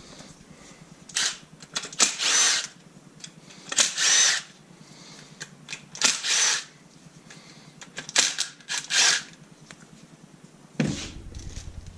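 Cordless power drill/driver run in about six short trigger bursts, each under a second, its motor whining up and down, as fasteners are spun out during the engine teardown.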